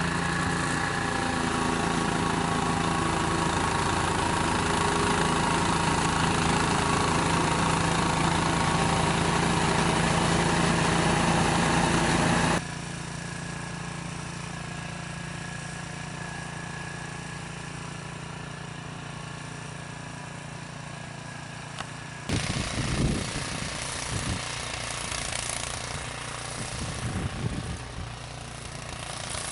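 Small gasoline engine running steadily, in three abruptly cut sections: loud for the first twelve seconds or so, then quieter, and for the last seven seconds with irregular knocks and rattles over it.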